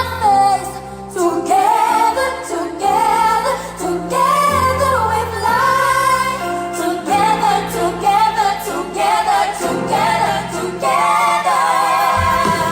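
Pop ballad with high-voiced singers holding long, wavering notes over sustained bass and backing accompaniment.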